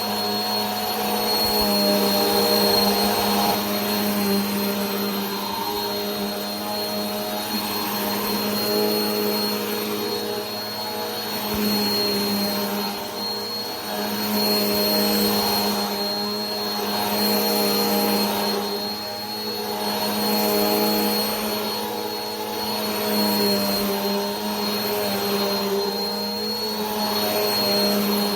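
Vacuum cleaner running continuously: a steady motor hum with a thin high whine above it, the loudness swelling and easing every few seconds.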